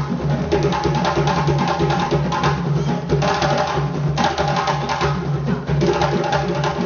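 African hand drums playing a fast, steady dance rhythm, dense with strokes, over a sustained low drum tone.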